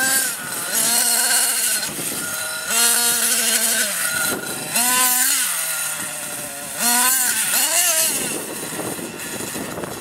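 Nitro RC monster truck engine revving up and down in repeated throttle bursts, its high whine rising and falling every second or two; after about eight seconds the engine sound drops away, leaving a steady hiss.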